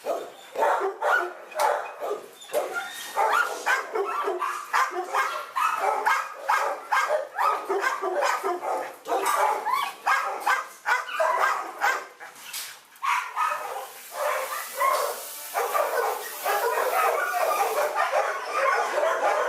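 Dogs barking over one another in rapid, overlapping barks, thickening into a near-continuous din in the last third.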